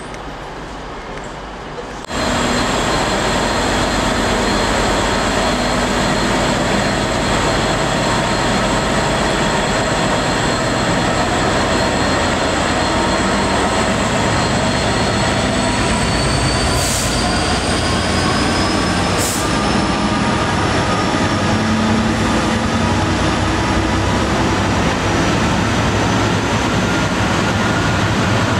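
Freight train passing close by: a Freightliner diesel locomotive's engine running under container wagons rumbling over the rails, with a steady high-pitched wheel squeal that slowly rises in pitch. The loud train noise comes in suddenly about two seconds in, after quieter background noise.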